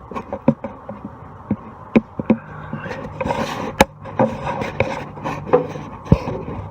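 Irregular metallic knocks and clicks with scraping as the front suspension is worked back and forth to check the lower ball joint, over a low steady hum. The clunking is the sign of a worn lower ball joint with a lot of play.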